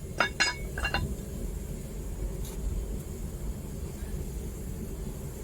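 A few sharp metallic clinks in the first second, metal striking metal, over the steady low roar of a propane burner firing a home-made furnace, turned down low; the roar continues alone after the clinks.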